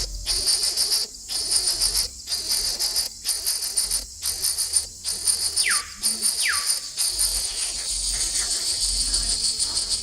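Insects chirring in a dense high-pitched chorus that comes and goes in pulses about a second long with short breaks. Twice, a little after the middle, a quick whistle slides down in pitch.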